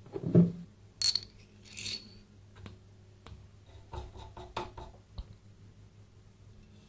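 Small metal parts being handled and set down: a knock at the start, two bright ringing clinks about one and two seconds in, then a cluster of light taps and ticks around four to five seconds.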